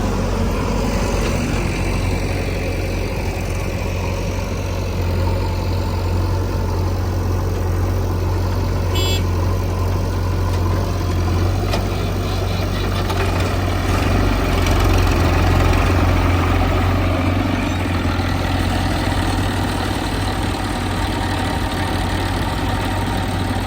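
Heavy diesel engines of a backhoe loader and a tractor running steadily at a low, idle-like note, with a brief row of high beeps about nine seconds in.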